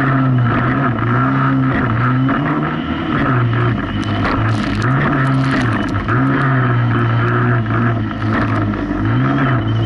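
Jet ski engine running hard over rough waves, its note dipping and picking up again several times as the throttle and load change. Bursts of water and spray hiss come through about four to six seconds in.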